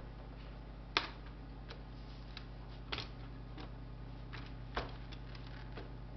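Scattered sharp clicks and light taps of small laptop parts and tools being handled, the three loudest about a second in, at three seconds and near five seconds, over a steady electrical hum.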